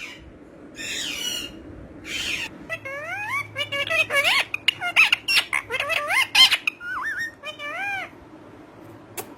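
A parrot squawking and whistling: a few short, harsh, hissy calls in the first two seconds or so, then a quick run of whistled notes that sweep up and down in pitch.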